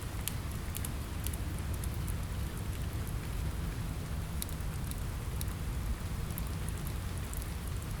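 Steady rain on a window mixed with a crackling fireplace: an even rain hiss over a low rumble, with scattered sharp pops and ticks throughout.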